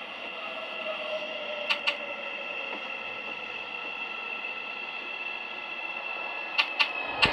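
Seoul subway Line 2 electric train running and slowing: a steady high electric whine with a lower tone gliding slowly down as the motors brake. The wheels click in pairs over rail joints about two seconds in and again near the end.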